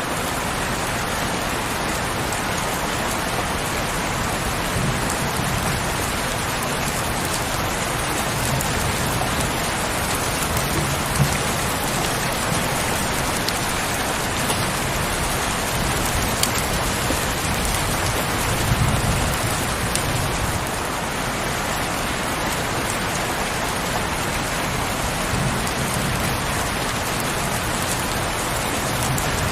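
Steady heavy rain falling, with a few sharper drop hits and low rumbles swelling now and then.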